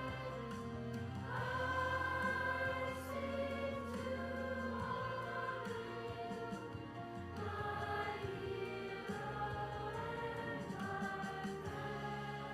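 A choir singing a slow song with long held notes over steady low accompaniment.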